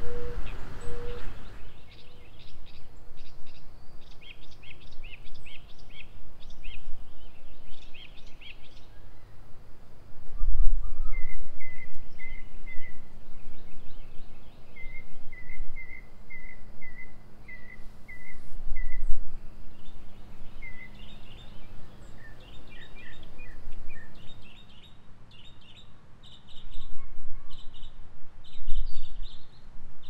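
Songbirds singing outdoors: runs of short high chirps, and in the middle a string of evenly repeated notes, over steady outdoor ambience. A few low rumbles come and go, the loudest about ten seconds in.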